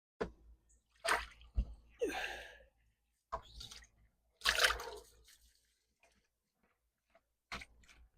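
Water in a small garden fountain splashing and dripping in short separate bursts, about half a dozen, with a few sharp knocks among them.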